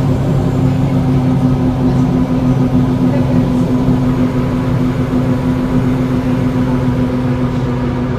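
Volvo B7L single-decker bus's six-cylinder diesel engine running at a steady speed, heard from on board as a steady, even drone.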